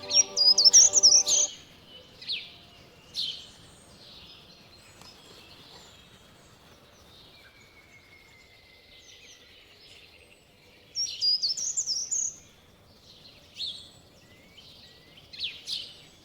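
Songbird singing outdoors: two fast, high twittering song phrases about ten seconds apart, with short chirps scattered between them.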